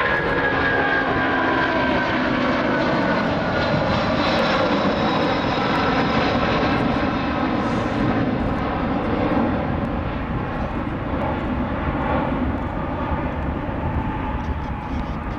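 Boeing 767-336ER's twin Rolls-Royce RB211 jet engines at takeoff power: a loud, steady roar whose whining tones drop in pitch over the first few seconds as the jet passes, then ease off slightly near the end.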